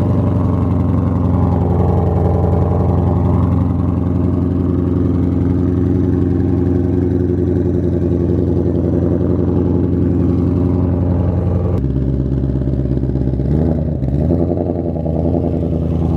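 Car engine running loud and steady at close range. About 12 seconds in the note drops, then rises and falls briefly, like a short rev.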